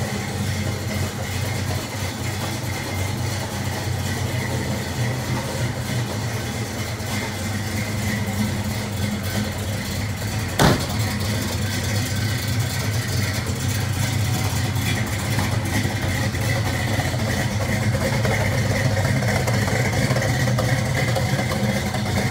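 A 1966 Ford Mustang 2+2's small-block V8 idling steadily after a cold start, with one sharp click about ten seconds in.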